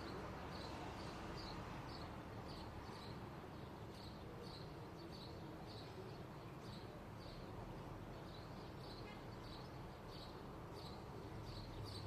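A small bird chirping over and over, short high chirps at about two a second, over a faint low background rumble.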